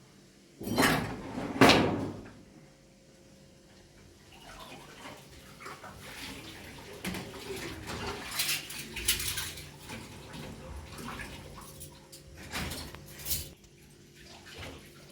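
Dishes and cutlery clinking and clattering irregularly, with two louder clattering sounds about a second and two seconds in.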